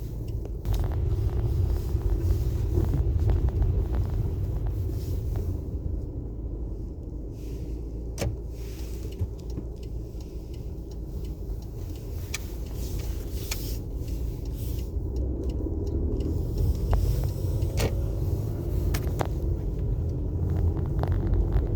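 Car driving, heard from inside the cabin: a steady low rumble of engine and road, with a few sharp clicks.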